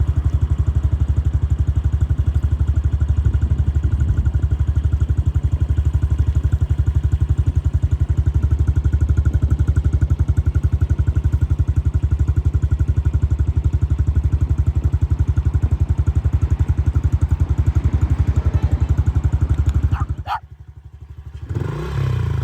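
Motorcycle engine running steadily with a low, evenly pulsing rumble, which stops abruptly near the end.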